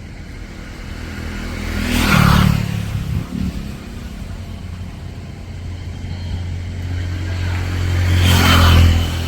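Road traffic: two motor vehicles pass close by, one about two seconds in and another near the end, each growing louder and then fading, over a steady low engine hum.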